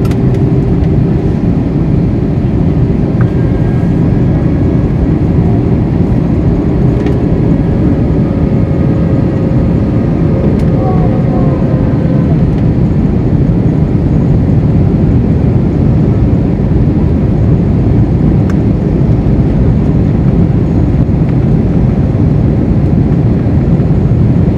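Airbus A321 jet engines during landing: a loud, steady low rumble, with faint engine tones slowly falling in pitch through the first half.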